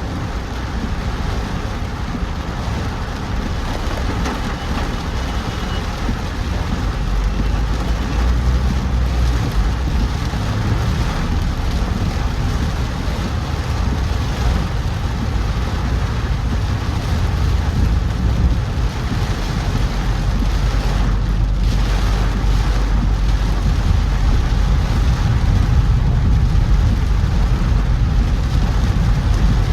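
A car driving in heavy rain: a steady hiss of rain and wet road over a low engine and tyre rumble that grows a little louder as it goes.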